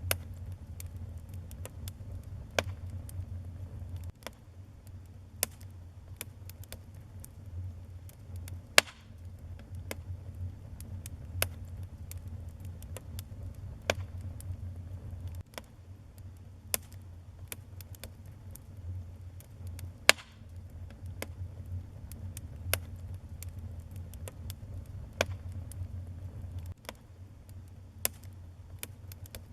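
Wood fire burning in a fireplace, crackling with irregular sharp pops, the two loudest about nine and twenty seconds in, over a low steady rumble.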